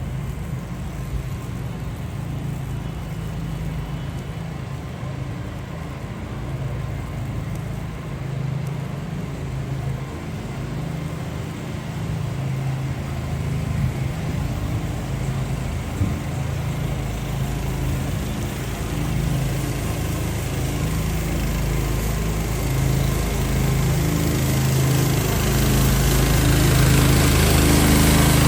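A motor engine runs steadily close by in a city street, growing louder over the last few seconds.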